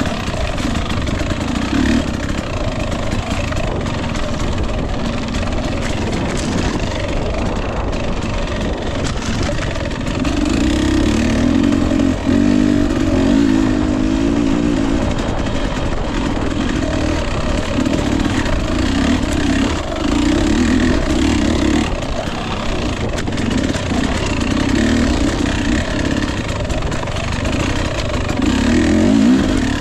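Husqvarna TE 250i two-stroke dirt bike engine running under load, revving up in repeated surges between lower-throttle stretches, with the strongest bursts about ten to fifteen seconds in and near the end.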